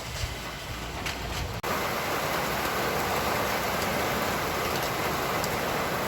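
A vehicle rumbling along a wet street, then an abrupt cut about a second and a half in to heavy rain falling steadily.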